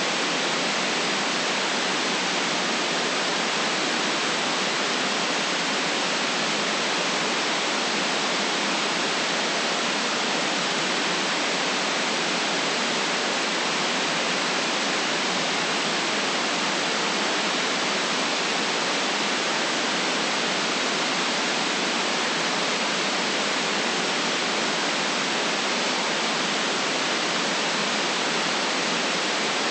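Steady synthetic white noise: an even, unchanging hiss with no rhythm or events, its bass rolled off and its top cut off sharply.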